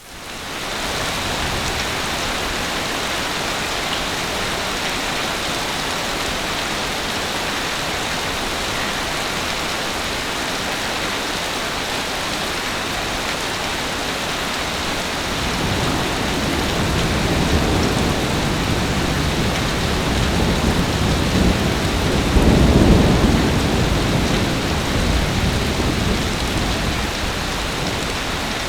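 Heavy rain falling steadily. About halfway through, a long low roll of thunder builds, peaks about three-quarters of the way in, then dies away under the rain.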